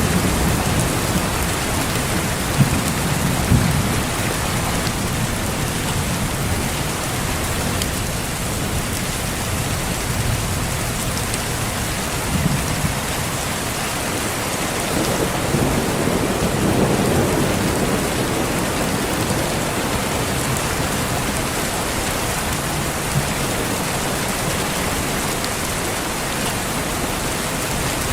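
Steady heavy rain falling on leaves and surfaces, with low thunder rolling in and out several times.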